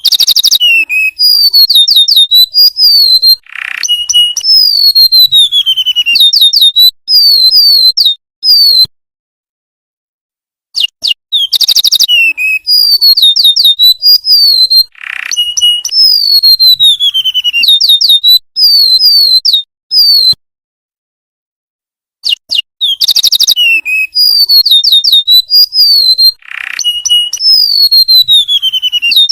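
Golden-bellied gerygone (remetuk laut) song as a looped recording: high, thin whistled notes and trills, many sliding downward. The same phrase sequence repeats about every 11 seconds, with short silent pauses between repeats.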